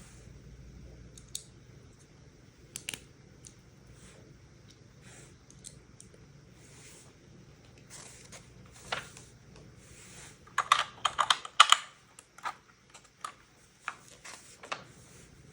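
Plastic Lego pieces being handled and pressed together: scattered sharp clicks and brief rustles, with a quick run of louder plastic clicks and rattles about eleven seconds in.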